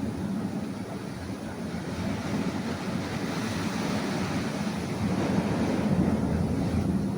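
Rough sea surf breaking and washing over coastal rocks, with wind buffeting the microphone; the wash swells from a couple of seconds in and is loudest near the end.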